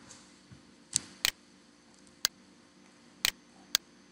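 Computer mouse button clicks: about six sharp single clicks, irregularly spaced half a second to a second apart, over a faint steady hum.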